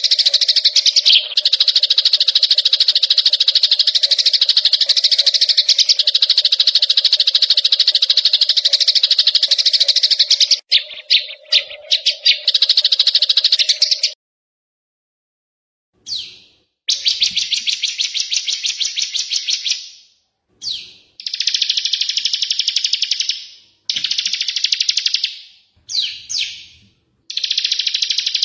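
Small songbirds singing in a bird-song tutor recording. A dense, rapid, unbroken trilling song runs for about fourteen seconds and then stops. After a brief silence come repeated shorter chattering song phrases, each lasting a second or three with short pauses between.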